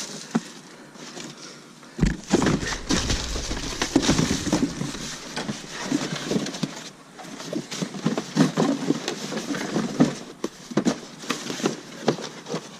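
Cardboard boxes and discarded electronic gear being shifted and rummaged through in a dumpster: irregular rustling, scraping and knocks, busier and louder from about two seconds in.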